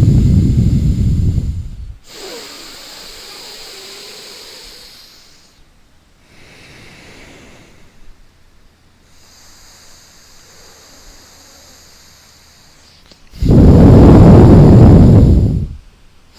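A person doing alternate-nostril breathing (nadi shodhana): two loud, rushing breaths through the nose, one ending about two seconds in and another about thirteen seconds in lasting a couple of seconds, with soft, hissing breaths between.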